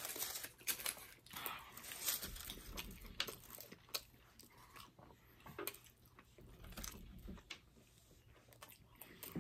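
A person chewing a mouthful of burrito, with irregular soft clicks and smacks of eating.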